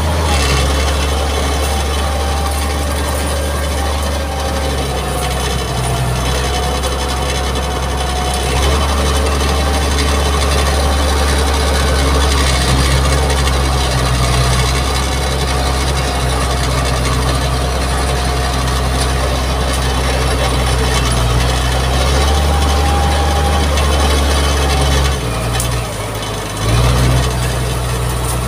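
Mitsubishi MG330 motor grader's diesel engine running steadily as a low drone, with a slightly wavering whine over it; the sound dips briefly near the end.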